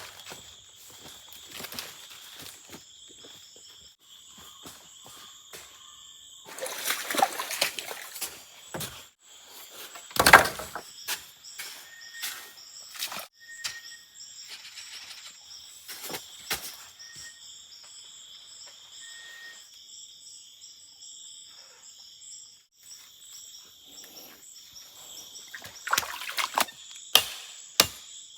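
Amazon rainforest ambience: a steady, high-pitched chorus of insects, with rustling and crunching through leaf litter and one heavy thud about ten seconds in. A few short whistled bird notes come in the middle.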